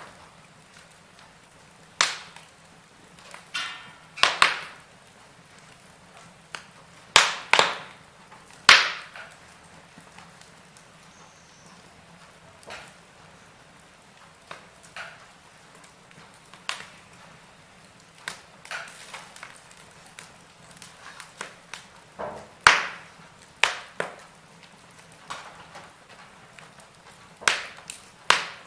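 Wood fire crackling, with sharp pops and snaps at irregular intervals over a faint steady hiss.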